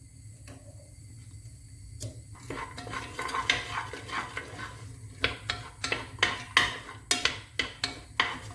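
A cooking utensil clattering and knocking against a pan of chopped vegetables. It starts about two seconds in and becomes a quick run of sharp taps, two or three a second, from about five seconds in.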